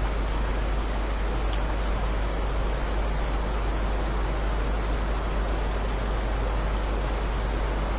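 Steady heavy rain: an even, unbroken hiss with a strong low rumble beneath it.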